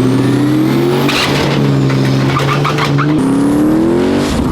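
Turbocharged drag truck's engine held at high revs on the transmission brake, spooling the turbo up for a launch. The engine note is steady at first and its pitch climbs near the end, with a faint rising turbo whistle above it and a few sharp crackles about a second in.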